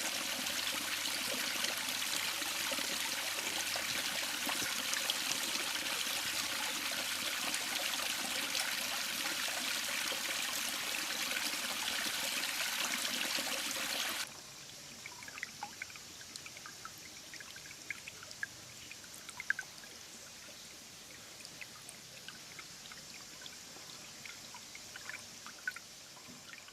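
Running river water, a steady rush that cuts off suddenly about halfway through. After the cut there is a much quieter background with scattered small ticks and short chirps.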